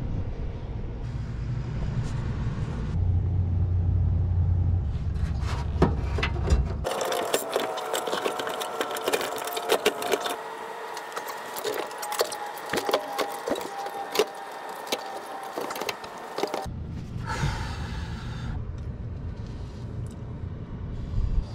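Many light metallic clinks and rattles of tools and parts being handled under a car. A low rumble drops away about seven seconds in and comes back near the end.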